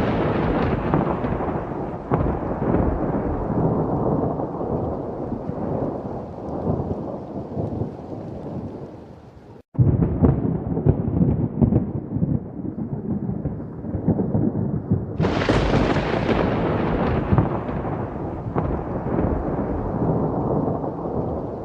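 Thunderstorm: long rolling thunder over rain. It breaks off for an instant about ten seconds in, and a new thunderclap comes about fifteen seconds in, then rumbles away.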